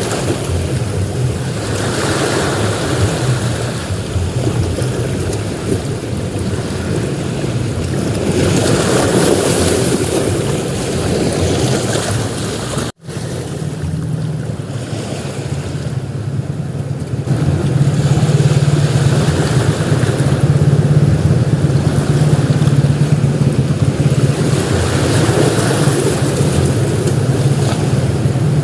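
Ocean surf breaking on a beach, the wash swelling and easing every few seconds, with a low rumble of wind on the microphone. The sound cuts out for an instant about halfway through, then comes back with a heavier low rumble.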